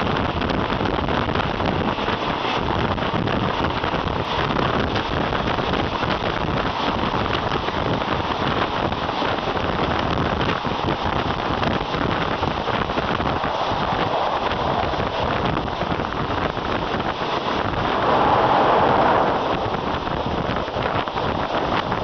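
Wind rushing over a microphone held out of a moving train's window, mixed with the train's running noise on the rails. A steady loud rush, with a brief louder swell about three-quarters of the way through.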